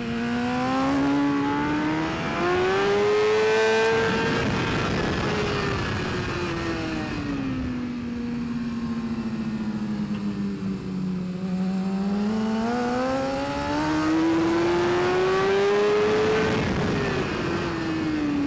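BMW S1000RR superbike's inline-four engine at full race pace, its revs climbing steadily for several seconds, dropping away as it slows for a corner, then climbing again and falling off near the end.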